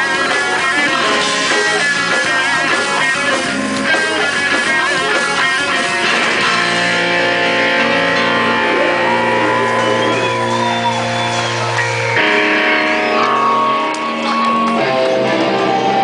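Rock band playing, led by electric guitar; the chords give way to long held notes about six seconds in.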